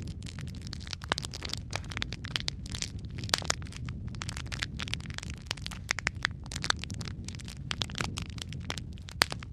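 Fireplace fire crackling: a steady run of irregular sharp pops and snaps over a low, even rumble, with one louder pop near the end.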